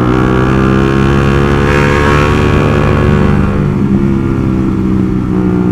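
Honda sport motorcycle engine running at a steady cruising speed under way, its pitch holding nearly even.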